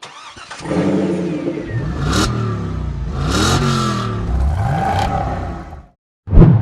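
Race car engines at speed, their pitch rising and falling several times as they rev through the gears and pass; the sound cuts off suddenly near the end.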